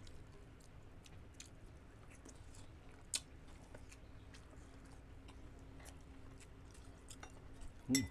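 Faint close-miked chewing and mouth clicks of people eating chicken binakol, over a steady low hum, with a sharper click about three seconds in and a short voice-like sound near the end.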